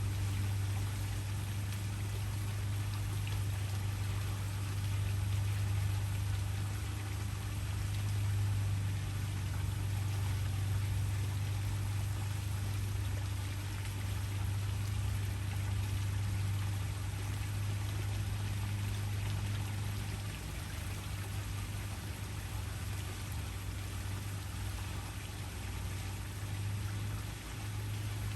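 Waterfall: water falling and rushing steadily, an unbroken wash of sound with a steady low rumble beneath it.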